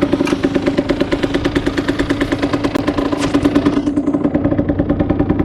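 Derbi Senda 50's single-cylinder two-stroke engine running at a fast, rattly idle, just cold-started after two weeks standing and warming up. Its sharper, raspier top end fades about two-thirds of the way through as the running settles.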